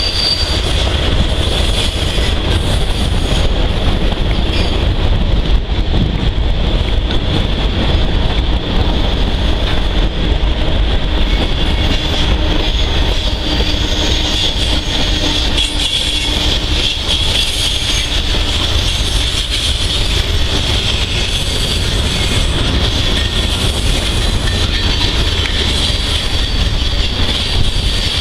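Norfolk Southern mixed freight train's cars rolling steadily past on a curve: a continuous rumble of wheels on rail, with a steady high-pitched wheel squeal over it.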